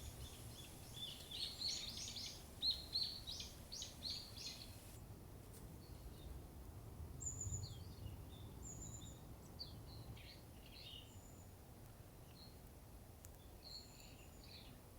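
Small birds chirping: a quick run of short high calls in the first few seconds, then scattered calls, over a faint low rumble of outdoor background noise.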